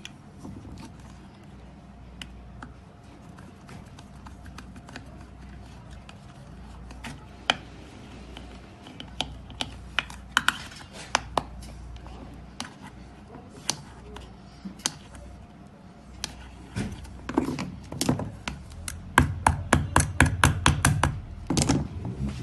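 Scattered clicks and knocks of hand work on a Moulinex spice grinder under repair, ending in a quick run of about a dozen knocks near the end.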